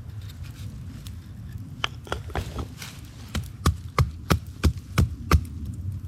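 A run of about six sharp wooden knocks, roughly three a second, in the second half, after a few lighter clicks: wood being chopped or struck while working a branch with a knife or another stick.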